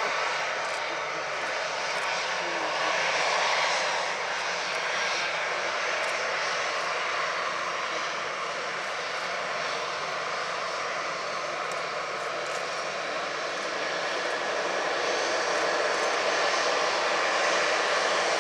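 Airliner engines running, a steady rushing noise that dips a little in the middle and swells again near the end.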